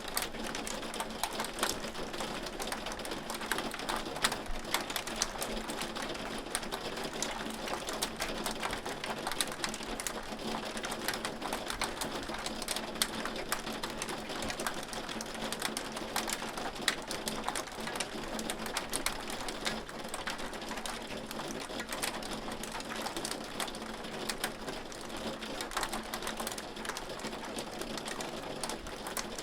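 Hailstones falling in a dense, steady patter of rapid, irregular clicks over a constant hiss.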